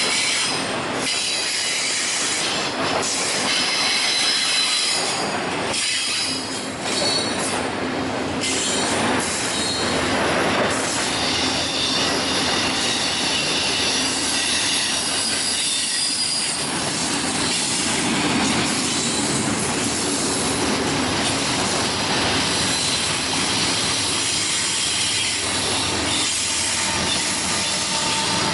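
Double-stack intermodal freight cars rolling past at close range, steel wheels squealing on the rail in thin high tones over a steady rolling noise. A clatter of wheel impacts is heard through the first several seconds.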